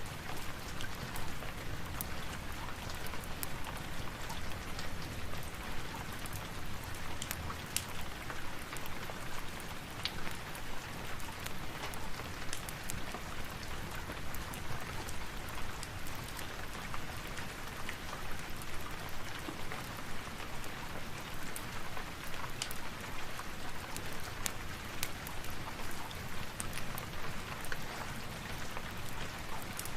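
Steady rain falling, with scattered sharp crackles of a wood fire over it.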